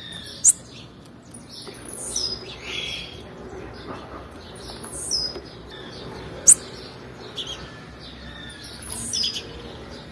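Female blue-black grassquit (tiziu) calling: short high chirps in clusters about every three to four seconds, with two sharp, very high sweeping notes, about half a second in and about six and a half seconds in, the loudest of all.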